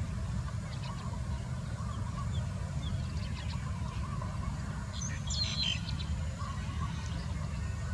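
Small songbirds chirping, short high calls scattered through, with a louder cluster of chirps about five seconds in, over a steady low rumble.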